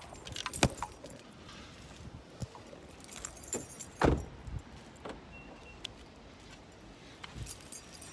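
Keys jangling and clinking amid handling knocks, with scattered sharp clicks and one louder thump about four seconds in.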